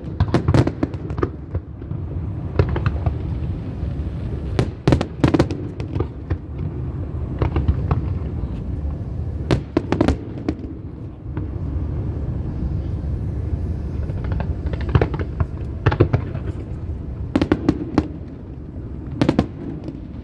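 Fireworks display: sharp bangs of shells bursting, coming in irregular clusters, with a quieter lull about halfway through, over a steady low rumble.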